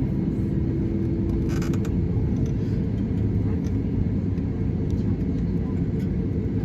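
Steady low rumble inside the cabin of an Airbus A320-200 on the ground, with a faint steady hum that fades out about two seconds in and a brief rattle about a second and a half in.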